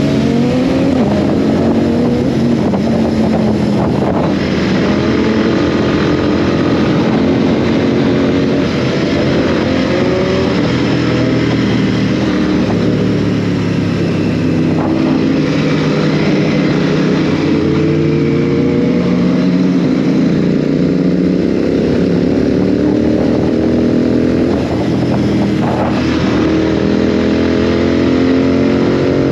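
Royal Enfield Continental GT 650's parallel-twin engine under way, its pitch climbing as it accelerates and dropping back at each gear change several times, then holding a steadier note near the end.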